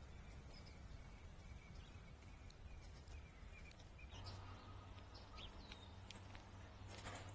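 Faint scattered bird chirps and short high call notes over a steady low background hum, with a brief rush of noise near the end.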